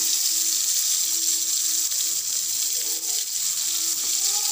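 Green chillies shallow-frying in hot oil in a frying pan, a steady sizzling hiss.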